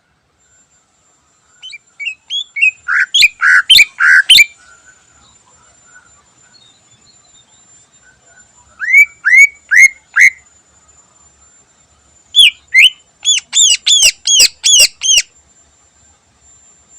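Cucak ijo (green leafbird) singing in three loud bursts of quick, sharp repeated notes. The first burst builds up in loudness, the second has four strong notes, and the last is a rapid run of about ten. A faint steady high whine lies under the song.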